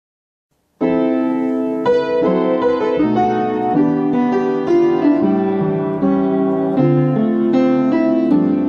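Piano playing a melody over chords, starting about a second in after silence.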